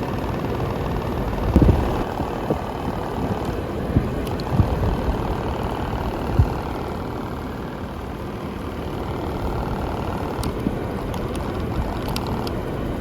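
Central air conditioner blowing a steady rush of air from its outlet, with irregular crackling knocks. The knocks come from the aluminium foil tape around the top of the vent, which has come loose and rattles in the airflow.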